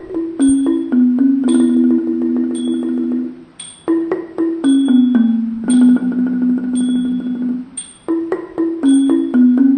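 Thai classical instrumental music on tuned mallet percussion: slow, separate struck notes, about one or two a second, each ringing on, in short phrases with brief pauses between them.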